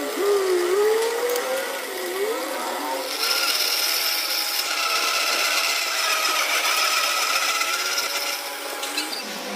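Power tool running on a workpiece, its pitch wavering at first, then settling into a steadier high whine from about three seconds in.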